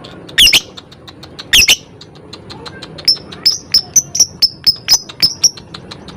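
Lovebird calling: two loud shrill screeches in the first two seconds, then a quick run of about a dozen short, sharp ticking chirps at about five a second.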